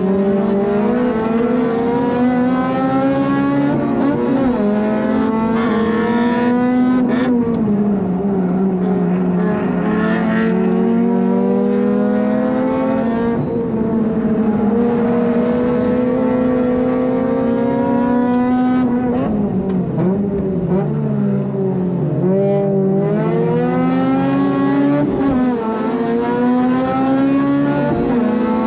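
Honda Civic FD2's four-cylinder engine running hard at high revs on track, heard from inside the car. The pitch climbs and holds, then drops sharply for shifts and braking several times, around four, seven, twenty, twenty-two and twenty-five seconds in.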